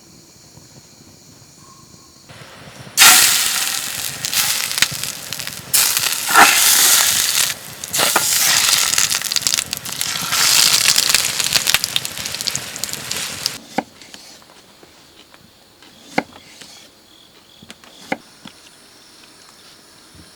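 Campfire crackling and hissing loudly for about ten seconds, starting about three seconds in, then dying back to a few sharp, scattered pops.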